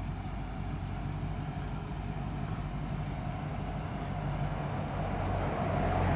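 Car engine running at low revs with a steady low rumble, growing louder over the last couple of seconds as the car draws closer.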